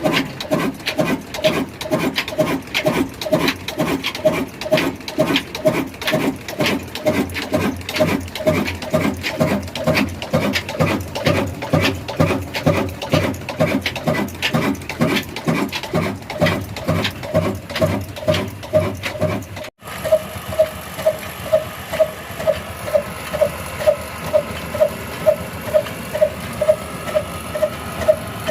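Old desi Ruston-type diesel engine running a flour mill, with a steady, regular beat of about two a second. A dense clatter under the beat drops away after a brief break about twenty seconds in, leaving the engine's beat standing out on its own.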